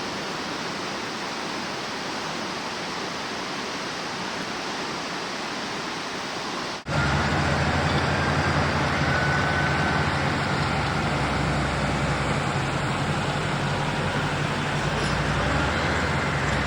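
Steady rushing of a swollen, flooding river. About seven seconds in, an abrupt cut brings in a vehicle engine running steadily with a low hum and a faint whine.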